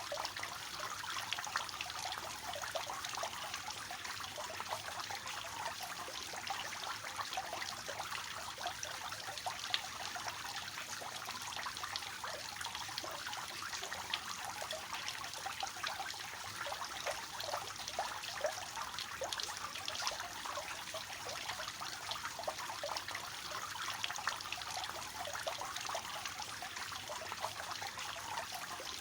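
Water falling from a three-tiered fountain, a steady splashing trickle.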